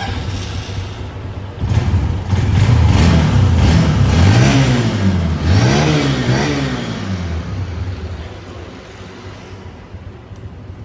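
Honda CB150 150 cc motorcycle engine being revved. It gets louder about two seconds in, then its pitch rises and falls twice in quick throttle blips around the middle before it settles back down.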